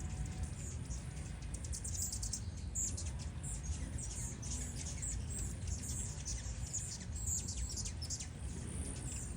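Small birds chirping: many quick, high-pitched chirps and twitters coming thick and fast, over a steady low rumble.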